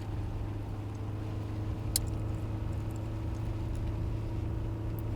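Steady engine drone and road noise heard inside a moving car's cabin, with a sharp click about two seconds in and a fainter one near the end.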